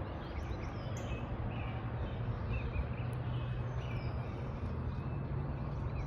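Outdoor ambience: a steady low hum with a few short, high, falling bird calls, one about a second in and another near the end.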